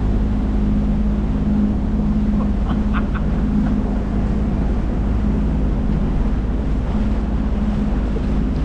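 Small speedboat's outboard motor running steadily underway, a constant hum with wind on the microphone and rushing water.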